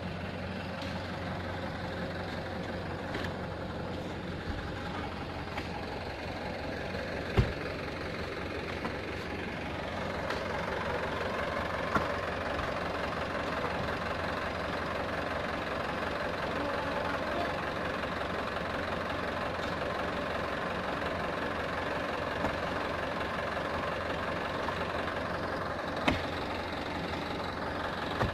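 Mitsubishi Canter truck's diesel engine running steadily, getting louder about ten seconds in, with a few sharp knocks, the loudest about seven seconds in.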